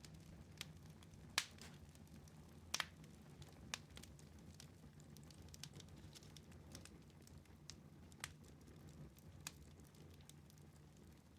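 Wood fire in a fireplace crackling quietly, with irregular sharp pops over a low steady rumble. The loudest pops come between one and three seconds in, one of them a quick double.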